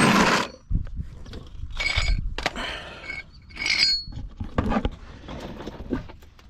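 Irregular clinks, knocks and rustling from metal tools or parts being handled, a few of the clinks ringing briefly.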